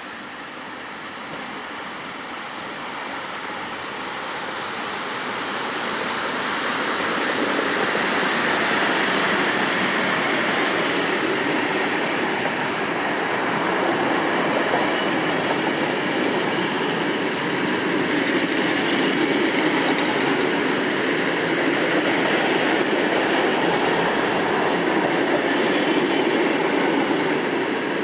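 Passenger train hauled by an EP07 electric locomotive running past on the line: a rumble of wheels on rails that builds over the first several seconds as it nears, then holds loud and steady as the coaches go by.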